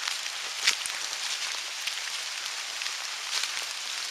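Steady rain falling, with scattered sharper drop ticks and one louder tick just under a second in.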